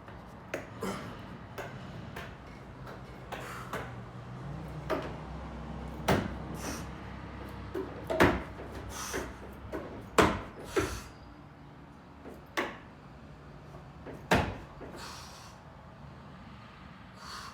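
A run of irregular knocks and thuds, some sharp and some dull, the loudest about eight, ten and fourteen seconds in, over a faint low hum.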